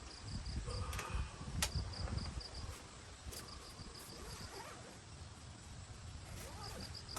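Crickets chirping in short repeated trains of rapid pulses, over a low rumble with a couple of sharp clicks.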